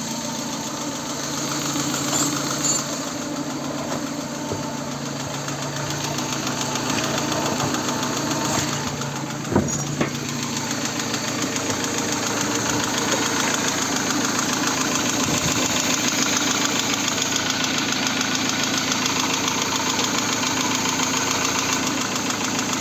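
VAZ 16-valve engine running hot with a steady knock, about 400 knocks a minute, with low oil pressure when hot, even after new bearing shells, oil pump and hydraulic lifters. A single sharp thump about ten seconds in.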